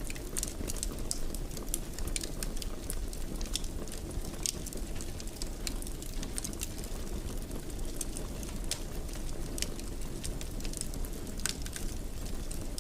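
Wood fire crackling in a fireplace: many small, irregular pops and snaps over a steady low rumble of burning.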